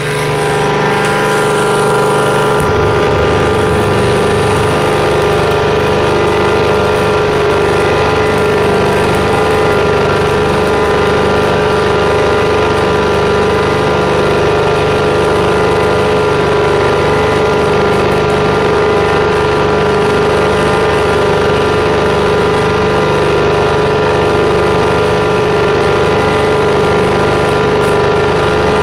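Prochem Legend SE truck-mount carpet cleaning unit running steadily, its Kohler 22 hp engine making a constant rumble under a steady multi-tone whine. The low rumble grows fuller about three seconds in.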